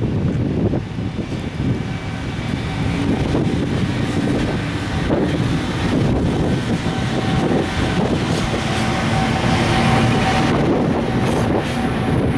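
EF510 electric locomotive with a container freight train moving, a steady rumble with a thin electric whine that sets in partway through and holds. Wind buffets the microphone.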